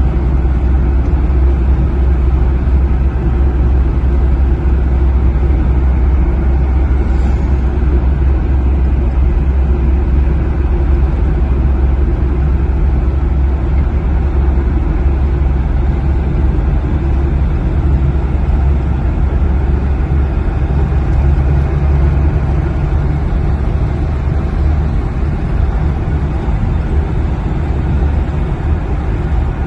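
Steady road noise of a car driving on a wet expressway: a constant low rumble with the hiss of tyres on the rain-soaked road.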